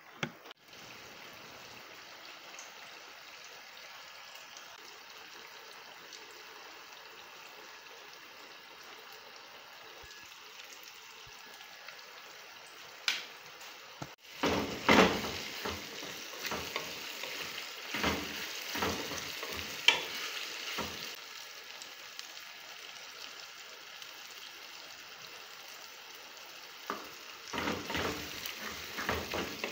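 Tomato and onion sauce frying in a two-handled pan on a gas stove, a steady sizzle. About halfway through, a wooden spoon starts stirring it, scraping and knocking against the pan in clusters, then again near the end.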